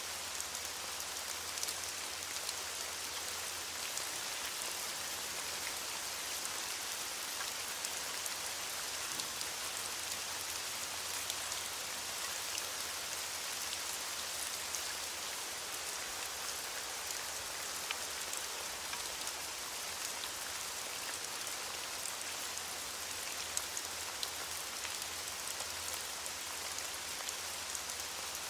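Steady rain falling on a surface, a continuous even hiss with many fine individual drop ticks.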